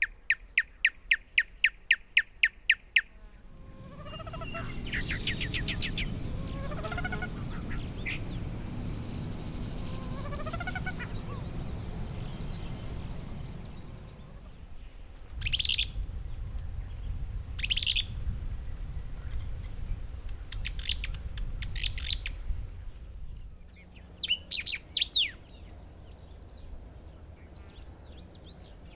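Songs of several Tumbesian dry-forest birds, one after another. First comes a fast, even series of about a dozen notes, then repeated low rising whistles over a background hiss, then short high calls. Near the end there is a brief burst of loud, high calls.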